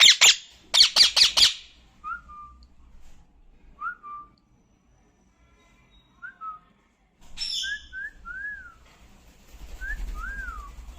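Pet parrot making a harsh rapid squawking call for the first second and a half. It then gives short soft whistled notes, some rising and falling, spaced out at first and coming closer together near the end.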